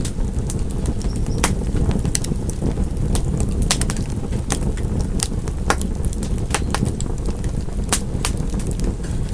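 Fireplace fire crackling: irregular sharp snaps and pops, several a second, over a steady low rumble of the flames.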